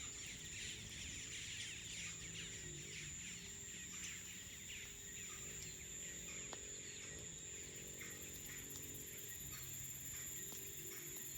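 Night insects, crickets among them, trilling on one steady high pitch, with many short high chirps over a faint low hum.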